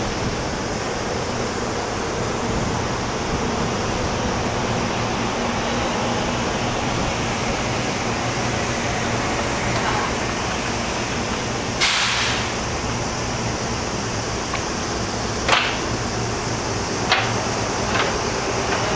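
Red Meitetsu commuter train drawing slowly into a terminal platform: a steady, even running noise, a short hiss about twelve seconds in, and a few sharp clicks near the end.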